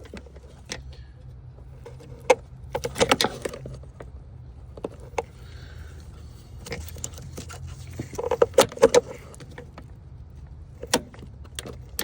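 Sharp clicks and small rattles of a pick and plastic retaining clips being worked and pried, coming in a few short clusters, over a steady low hum.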